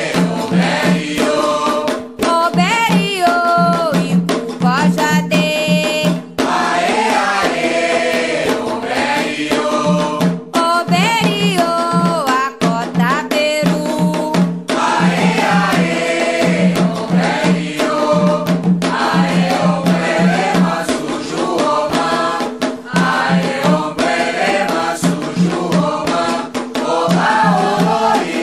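Candomblé chant sung by voices in a group, with percussion keeping a steady repeating beat and a rattle.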